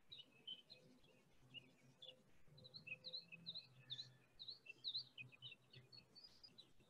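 Faint songbirds chirping, with a quick run of repeated chirps about three to five seconds in.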